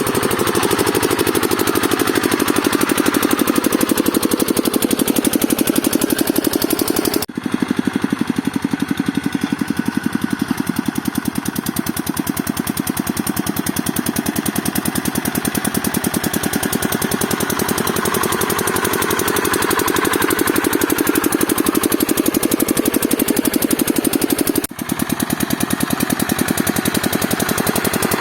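Single-cylinder diesel engine of a walk-behind hand tractor running steadily with a rapid, even knock of firing strokes. The sound breaks off for an instant twice, about a third of the way in and near the end.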